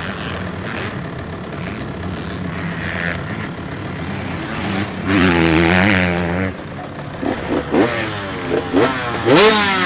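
Dirt bike engines running: a steady hum, a louder rise and fall in pitch about five seconds in, then a quick run of sharp throttle blips near the end.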